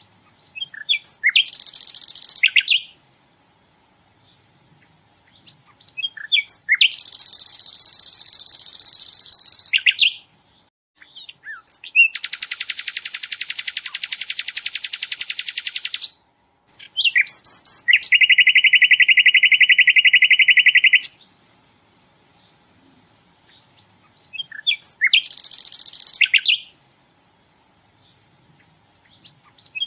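Sikatan londo singing its rapid-fire 'tembakan' song: five bursts, each a few sharp chips running into a long, very fast, high trill lasting one to four seconds, with short pauses between them. The fourth burst is lower-pitched than the rest.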